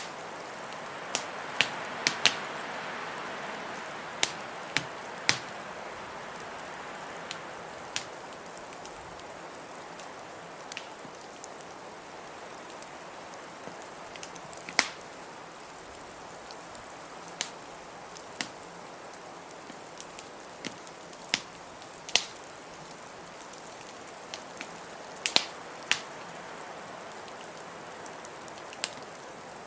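Wood fire crackling in a fireplace, with sharp pops at irregular intervals, over a steady rush of blizzard wind.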